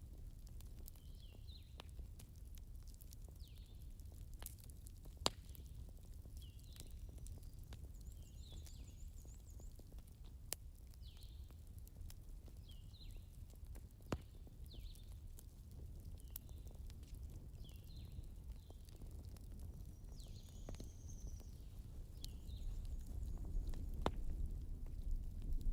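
Campfire crackling with a few sharp pops over a steady low rumble, under short high chirps that repeat about once a second.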